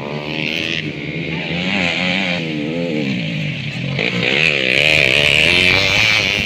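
Several motocross bike engines revving hard, their pitch rising and falling over and over as the riders throttle on and off around the track, louder in the last couple of seconds.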